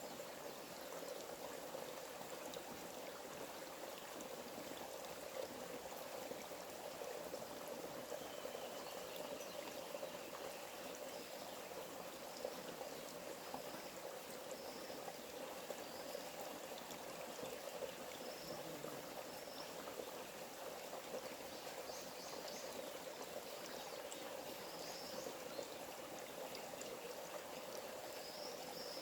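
A small forest stream running steadily, a continuous trickling rush of water. Faint short high chirps sound now and then over it, more often in the last few seconds.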